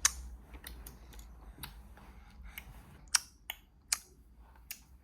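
A toddler making short, sharp clicks at an uneven pace, about six in five seconds, the loudest a little after three and four seconds in.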